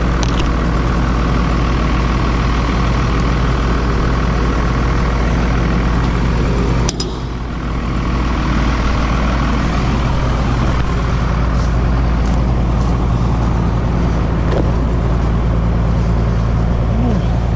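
Diesel engine of a logging machine idling steadily just after a cold-weather start, with a single sharp knock about seven seconds in.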